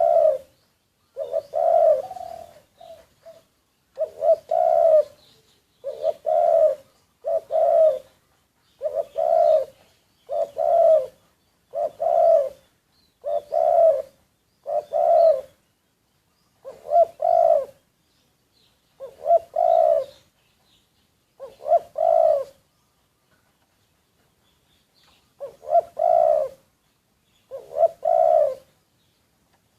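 Spotted dove kept as a decoy bird, cooing over and over: a short low phrase of coos about every second and a half, with a couple of longer pauses in the second half.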